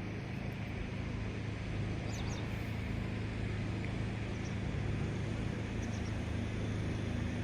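An engine running steadily at idle, a low even hum, with a few faint bird chirps about two seconds in and again near six seconds.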